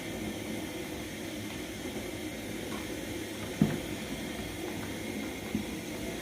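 Pot of ugali cooking on a gas stove, a steady hiss of burner and simmering pot. Two short knocks break it, the louder about three and a half seconds in and a fainter one near the end.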